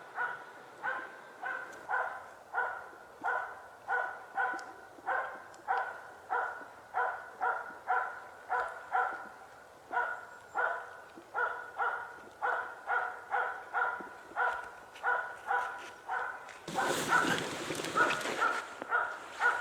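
Hunting dog barking steadily, about two barks a second, baying at a game bird sitting in a tree. A burst of louder noise comes in near the end.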